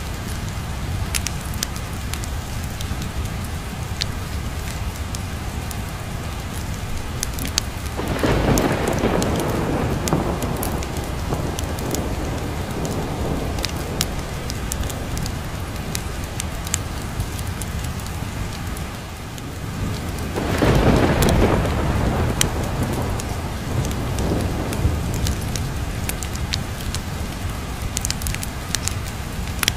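Steady rain with thunder rumbling twice, about eight seconds in and again, louder, about twenty-one seconds in, over a fireplace crackling with sharp pops.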